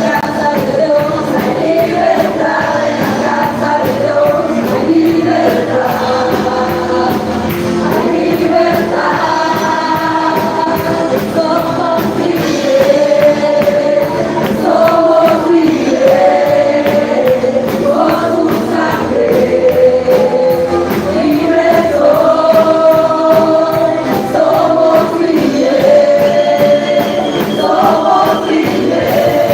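Congregational worship song: voices singing together in Spanish over instrumental accompaniment with a steady beat.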